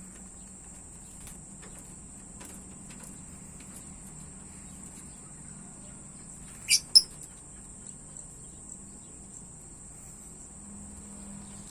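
A cricket's steady high-pitched trill, with a songbird giving two short, sharp chirps close together about seven seconds in.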